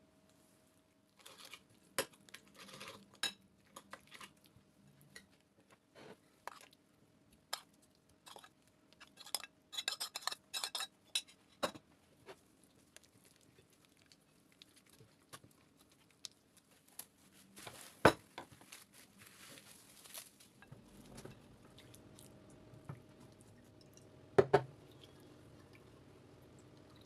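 Kitchen clatter of dishes and utensils: scattered clinks and knocks, densest in the first half, with two louder knocks later on. A low steady hum comes in about three-quarters of the way through.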